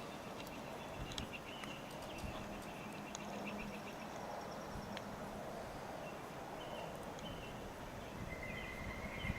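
Faint outdoor ambience: a steady low rush of wind with small birds chirping and giving short whistled calls, with a longer high whistled note near the end.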